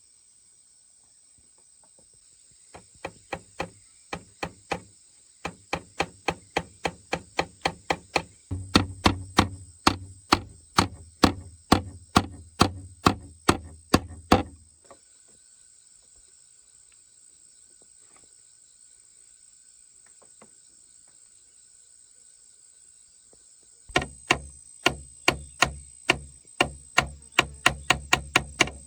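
Steady, rapid blows of a hand tool striking wood, about two to three a second: a long run, a pause of several seconds, then another run near the end. A constant high-pitched drone of insects carries on underneath.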